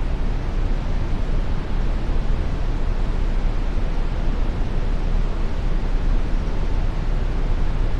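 Steady brown noise: an even, deep hiss weighted toward the low end, with no changes.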